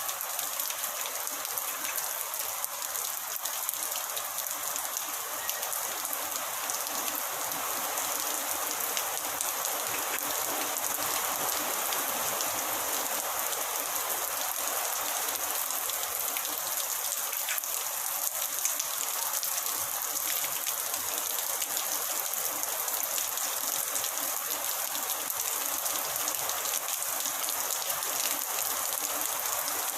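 Heavy rain falling steadily: a dense, even hiss of drops with fine patters, slowly growing a little louder.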